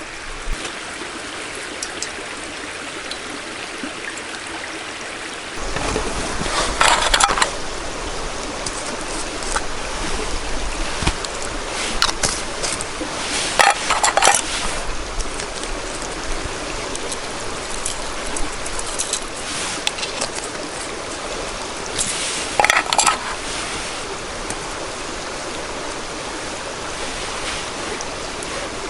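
Steady rush of running water. About five and a half seconds in the sound grows fuller, and there are a few short, louder rustles or clatters.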